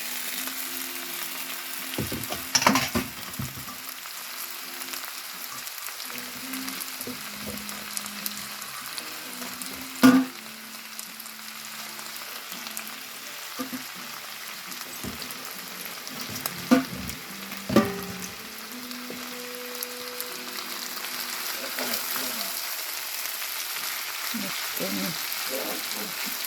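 Ingredients for wheat-noodle pancit sizzling in a frying pan while being stirred, with a few sharp knocks of the utensil against the pan, the loudest about ten seconds in and two more near seventeen and eighteen seconds.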